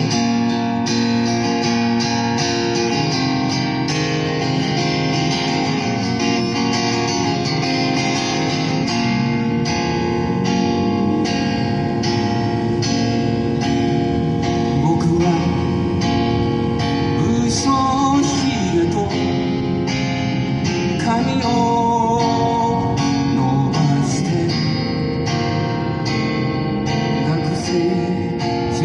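Guitar strummed in a steady rhythm, playing a Japanese folk song, with a wavering melody line coming in over it around the middle.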